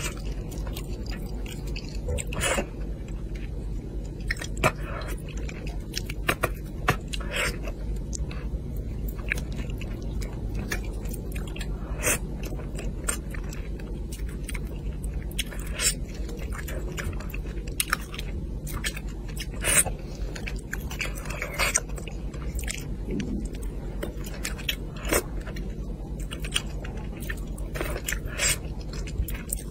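Close-miked chewing and biting of a person eating spicy braised fish, with irregular sharp wet clicks and smacks over a steady low hum.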